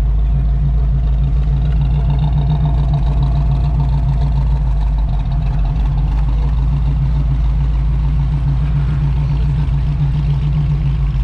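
A vehicle engine idling steadily, with a strong, constant low hum.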